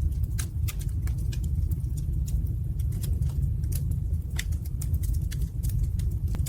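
Wood fire burning in a fireplace, crackling with frequent sharp, irregular pops over a steady low rumble of the flames.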